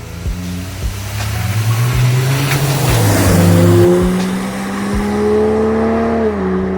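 Ineos Grenadier's 3.0-litre BMW straight-six engine running through a Milltek Sport stainless steel aftermarket exhaust. The revs and exhaust note climb through the middle, then drop off about six seconds in.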